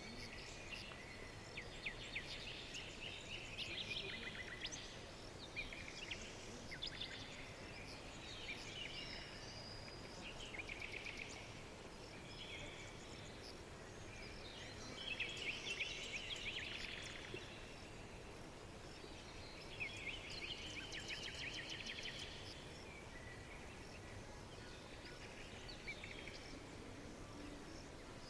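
Several songbirds singing in a forest, with trills and chirps coming in phrases every few seconds over a faint steady background hiss.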